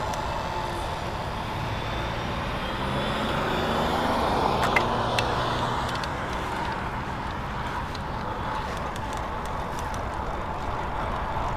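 Road traffic heard from a moving bicycle: a steady rush of wind and road noise, with a vehicle swelling past about four to five seconds in, its engine pitch gliding as it goes by. A couple of sharp ticks come at the loudest point.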